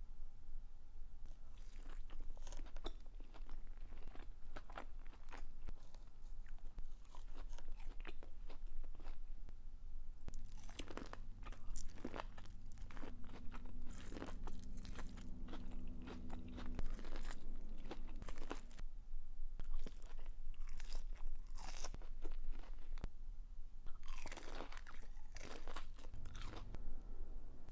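Close-miked eating: crunching bites and chewing of breaded fried chicken dipped in ranch and of corn on the cob, with many irregular crunches and wet mouth sounds.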